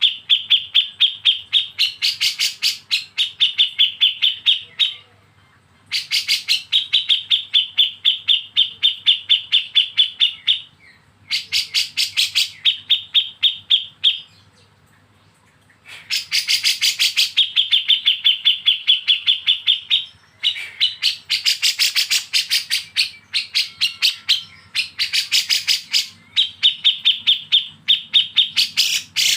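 Bulbul's 'besetan' call: a harsh, rapid chatter of sharp repeated notes, about five a second, in bouts of several seconds with brief pauses between them.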